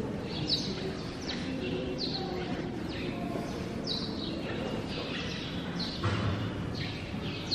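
Small birds chirping: short, sharp falling chirps about once a second over steady background noise.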